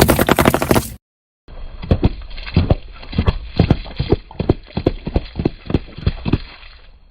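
Objects crushed under a car tyre: a dense rattle of sharp cracks and crunches, then a short dropout, then an irregular run of snaps and pops a few times a second that fades out near the end.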